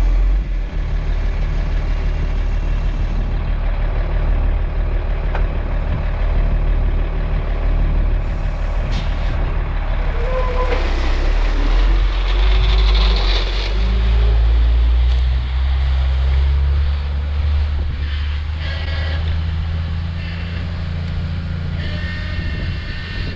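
International S1900 dump truck's DT466 diesel engine running, its pitch shifting about halfway through, with a hiss of air around the middle.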